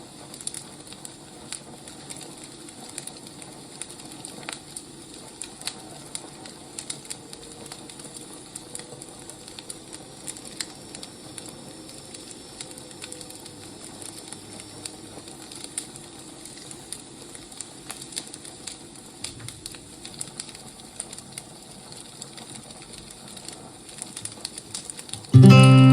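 Wood fire crackling: irregular pops and snaps over a steady soft hiss. About 25 seconds in, acoustic guitar music starts abruptly and loudly.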